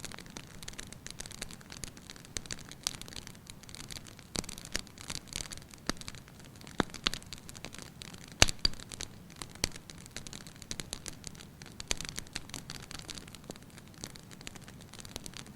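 Wood fire in a fireplace crackling, with irregular pops and snaps; one sharp pop about eight seconds in is the loudest.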